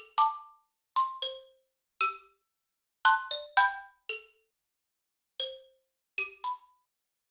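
Sparse background music of struck, bell-like notes: quick runs and single notes, each dying away fast, with short gaps between them.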